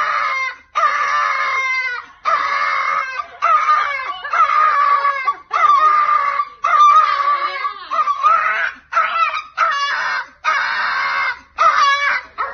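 Small dog standing on its hind legs and crying out with its mouth wide open: a run of about a dozen long, high-pitched cries, each lasting around a second, with short breaks between them.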